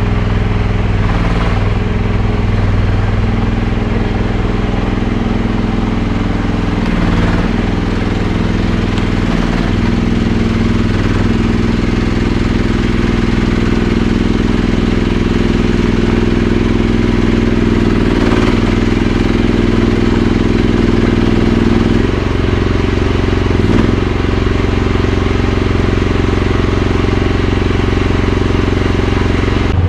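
Mini excavator engine running steadily, its tone shifting briefly a few times as the machine is worked.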